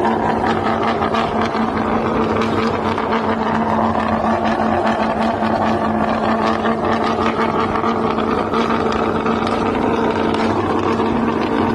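Car engine and exhaust running loudly at a steady engine speed, a constant drone with no revving.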